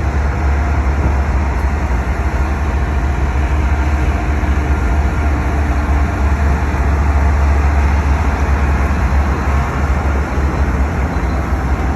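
Freight train moving close by, led by a GE ES44C4 diesel-electric locomotive: a steady, loud rumble of engine and rolling wheels.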